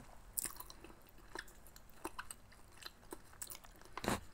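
Close-up mouth sounds of someone chewing siomai with the mouth closed: soft, wet, scattered clicks, with one louder smack near the end.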